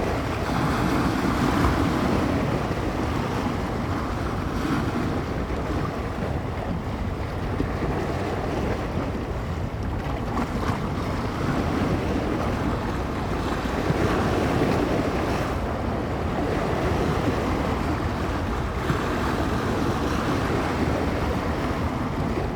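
Bay waves breaking and washing on the shore, rising and falling in slow surges every several seconds, with a steady wind rumbling on the microphone.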